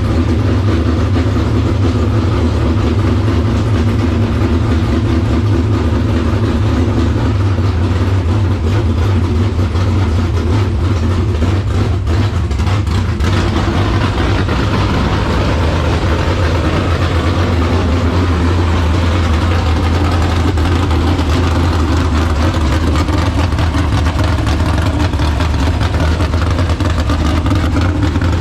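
Dirt late model race car's V8 engine running steadily at idle.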